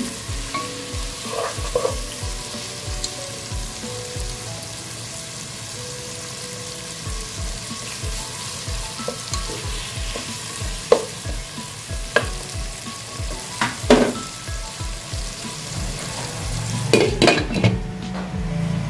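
Chopped onions, tomatoes and ginger sizzling in hot oil in a pot while a spatula stirs them, with a few sharp knocks of the spatula against the pot. Near the end, a clatter as a glass lid goes on.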